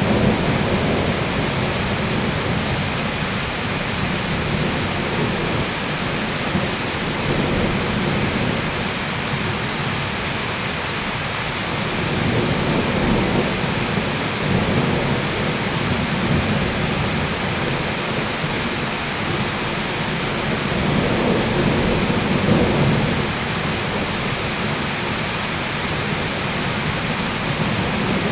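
Heavy rain falling steadily in a thunderstorm, with low rolling thunder swelling up three times.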